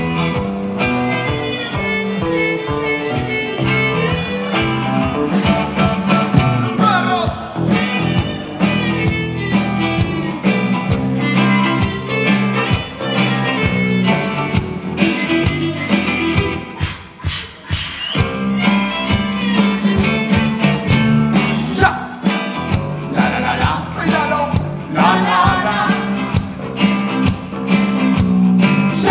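A rock band playing live: guitar notes at first, then drums come in about five seconds in. The music thins briefly near the middle, then the full band picks up again.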